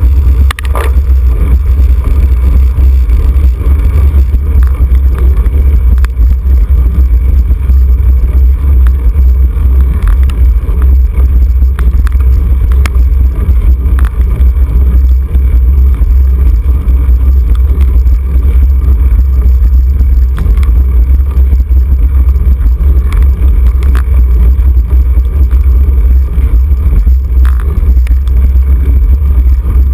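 Loud, steady low rumble of wind buffeting the microphone of a camera on a road bicycle being ridden at race speed, with faint scattered clicks.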